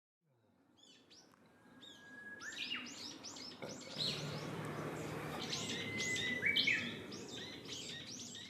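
Wild songbirds singing: quick series of sharp, high, down-slurred notes, with a long thin steady whistle twice, over a soft outdoor hiss. The sound fades in at the start.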